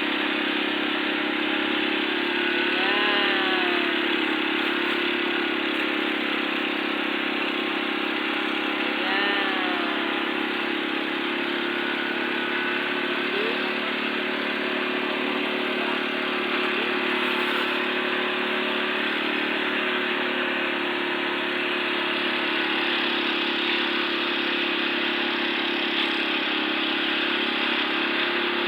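An engine running steadily, a continuous drone with no change in pace. Two short rising-and-falling calls cut through it, about three and nine seconds in.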